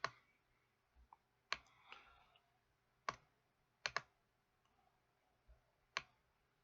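Faint computer mouse clicks, single clicks a second or two apart with a quick double click partway through, while browsing on a computer.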